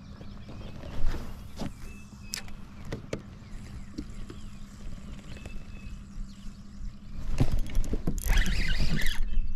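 A few sharp clicks over a faint steady hum, then loud splashing from about three-quarters of the way in as a hooked fish thrashes at the water's surface beside the kayak.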